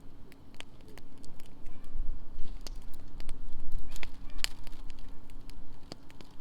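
Wood fire burning in a campfire fire pit, crackling with irregular sharp pops over a low rumble.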